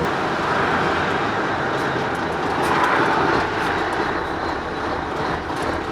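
Scania 143's V8 diesel truck driving on the road, a steady mix of engine and road noise, swelling slightly twice.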